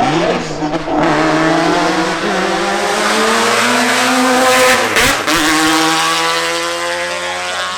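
Race car engine at full throttle, its note climbing as it accelerates toward the listener, then dropping sharply as it passes about five seconds in and running on lower as it pulls away.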